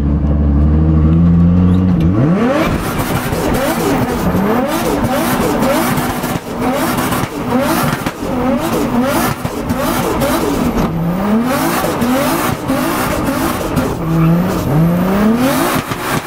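Drift car engine holding a steady note, then from about two seconds in revving up and down over and over as the car is thrown through a drift, with a rough hiss of tyre noise over it.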